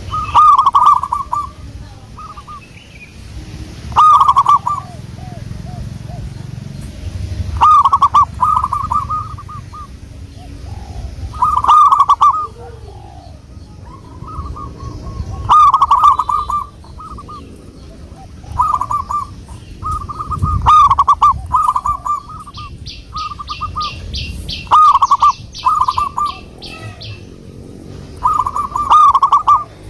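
Zebra dove (perkutut) singing its cooing song: a phrase of several quick, rolling notes, repeated about every three to four seconds. A separate, higher, rapid ticking chirp from another small bird runs for a few seconds about two-thirds of the way through.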